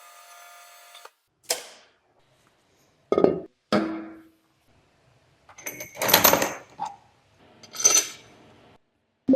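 Metal tools and engine parts clinking and clattering: about seven separate knocks and clinks with a short ring after each, after a steady hum stops about a second in.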